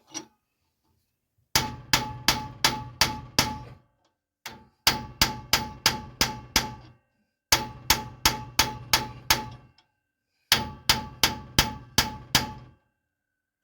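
Hammer blows on metal, ringing after each hit. They come in four runs of about six evenly spaced strikes, roughly three a second, with a single hit between the first two runs.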